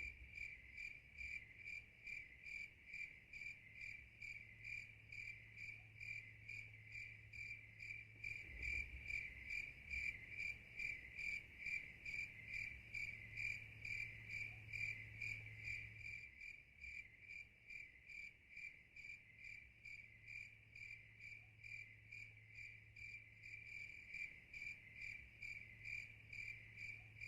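A cricket chirping faintly in a steady, even rhythm, about two to three chirps a second, each chirp on the same high pitch.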